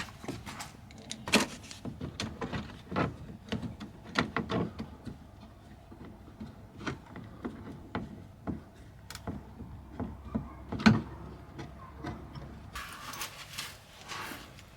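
Small metal brackets and hand tools being handled, giving irregular clinks, taps and knocks, with a brief hiss near the end.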